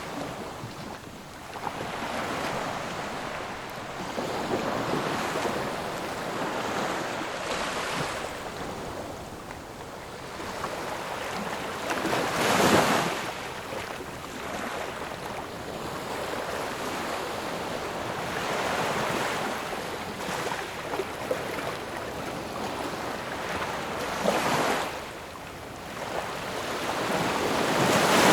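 Ocean waves breaking and washing on the shore in a steady rush, with bigger waves cresting about twelve seconds in, near twenty-five seconds and again at the very end.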